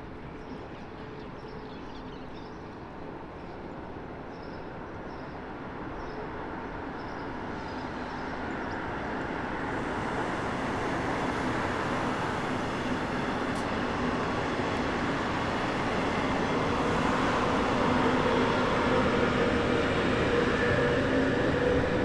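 Electric regional train of double-deck coaches running over a railway bridge, its wheels rumbling on the rails and growing steadily louder as it comes closer. A steady hum from the electric locomotive joins in near the end.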